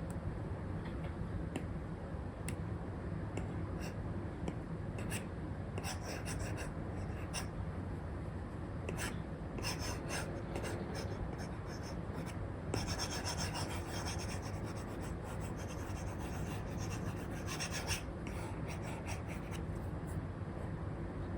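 Apple Pencil 2 with an Elecom nib drawing on a paper-like screen film over an iPad: scratchy pen strokes, many short ones in quick runs, busiest a little past halfway, over a steady low background hum.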